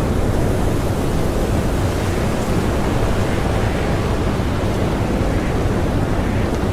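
Strong blizzard wind blowing steadily, a dense low rush of noise with no distinct whistle or gusts standing out.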